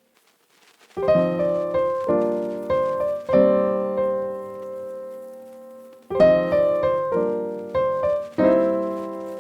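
Background piano music: chords struck and left to fade, starting about a second in after a brief silence, with a long held chord in the middle.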